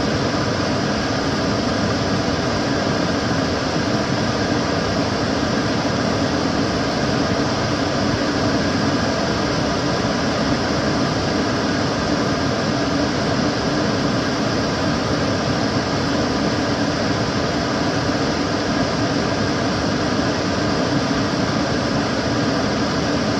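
Kitchen cooker hood extractor fan running steadily: an even rushing of air with a low hum underneath.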